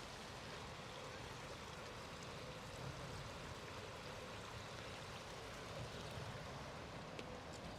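Steady outdoor city ambience: an even rushing hiss, with a couple of faint ticks near the end.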